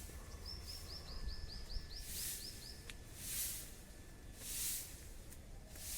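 A bird calling a quick run of about a dozen short, high, repeated notes, lasting until about halfway through. A high hiss swells and fades roughly once a second throughout, over a steady low rumble.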